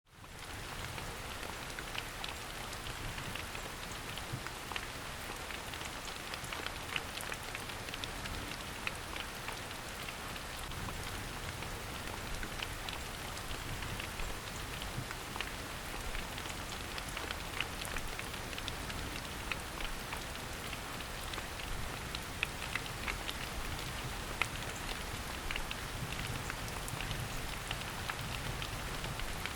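Steady rain falling in a forest: an even hiss with many individual drops ticking close by.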